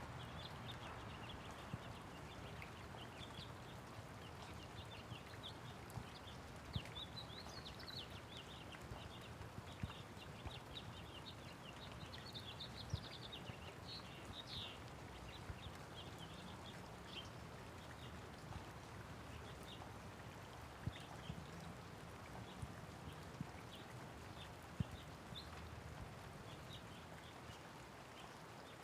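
Light rain with birds chirping: many short, high chirps come and go, busiest in the first half, over a steady patter of rain with an occasional sharper drip.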